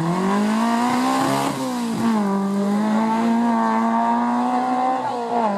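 Rally car engine accelerating hard, rising in pitch, then dropping sharply on an upshift about two seconds in. It then holds fairly steady revs, with a brief dip near the end.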